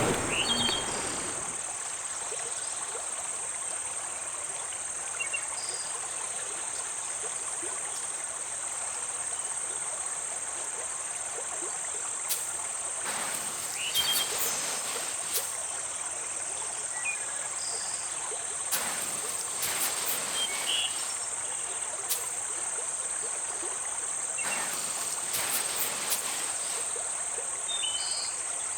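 Steady high-pitched insect chorus, with the hiss of river water beneath it. Elephants bathing in the river splash a few times, in short bursts.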